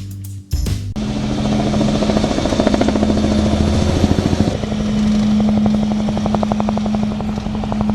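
A motor vehicle's engine running, starting about a second in, with a steady hum and a pulsing rhythm through the middle.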